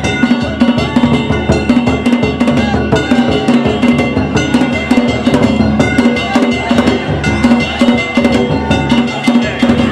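Danjiri festival music: taiko drums and metal kane gongs beaten together in a fast, steady rhythm, the gongs ringing on between strikes.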